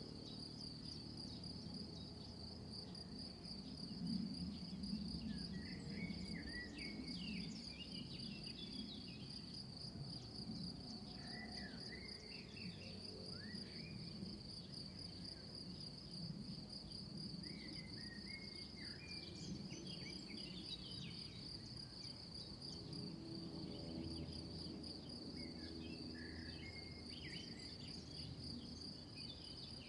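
Crickets trilling steadily in one high, even pulsing tone, with scattered short chirps and a low background rumble.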